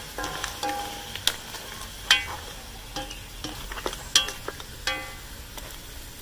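Crabs and vegetable sofrito sizzling as they fry in a metal pot while being stirred with a plastic spatula. The spatula and crab shells knock against the pot several times, each knock ringing briefly.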